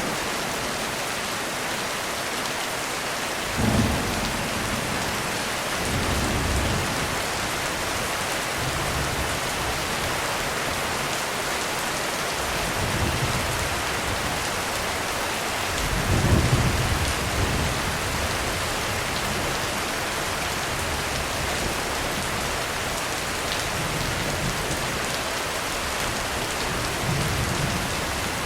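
Heavy rain falling steadily on a roof, with thunder rumbling several times over it. One sharp rumble comes early, and the longest and loudest comes about halfway through.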